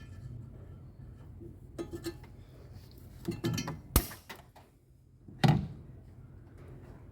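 Scattered clinks and rattles of hard objects being handled, with one sharp knock about four seconds in.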